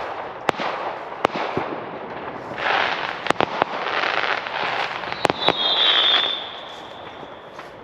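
Fireworks going off: scattered sharp bangs over a dense crackling hiss, with a high whistle starting about five seconds in and fading away.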